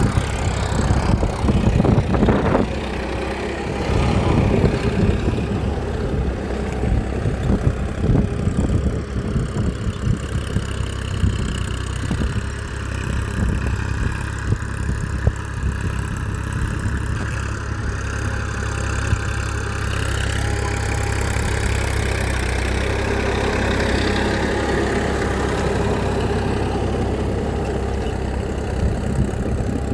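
Mini dumper's engine running steadily, with irregular knocks and rattles over it in the first half that smooth into an even hum later.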